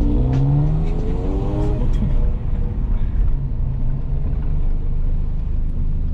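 1993 Saab 900 Turbo S's 2.0-litre turbocharged 16-valve four-cylinder engine pulling under acceleration, its note rising for about two seconds. It then drops away at what sounds like a gear change and runs on at a steadier, lower pitch.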